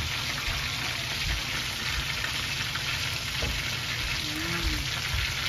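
Chicken pieces frying in hot oil in an aluminium wok: a steady sizzle.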